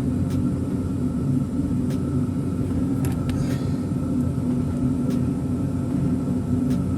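Steady low mechanical hum with a faint steady higher tone above it, and a few faint clicks scattered through it as header screws are handled by hand.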